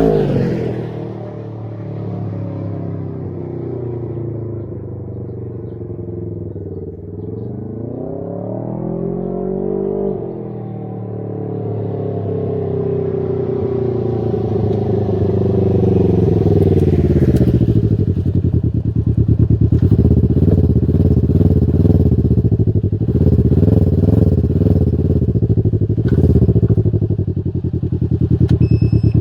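Can-Am Ryker 600 engine running through a Brannon King muffler with a 51 mm silencer baffle in the header pipe. Its pitch falls and climbs back about a third of the way in, then climbs again and holds steady at higher revs.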